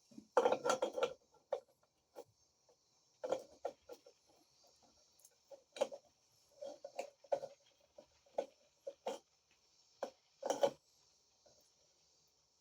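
Maytag wringer washer head gearbox parts being fitted by hand: irregular metallic clicks and knocks as the input shaft and gears are worked into place, with a cluster of clinks near the start and another a little over ten seconds in.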